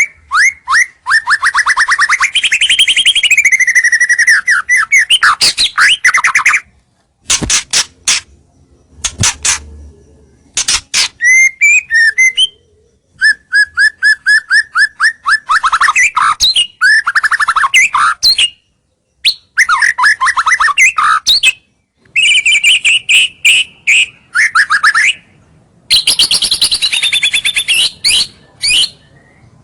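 White-rumped shama singing a loud, varied song: fast rattling trills of rapidly repeated notes and whistled phrases, broken by short pauses. It is a lure song, meant to draw rival birds in.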